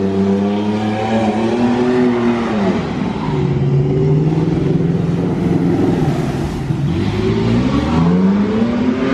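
A truck engine revving hard and held at high revs, dropping in pitch about three seconds in and climbing again near the end.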